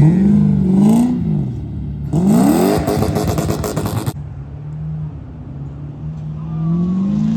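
Car engine revving: one rise and fall, then a sharp climb with a loud rasp that cuts off abruptly about four seconds in, settling to a steady idle before climbing again near the end.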